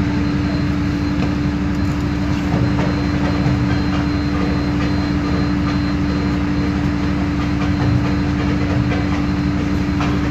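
Isobus City 1200 bus running at a steady speed, with the low rumble of its MAN D0836 diesel under a strong steady drivetrain whine from the ZF automatic transmission and differential.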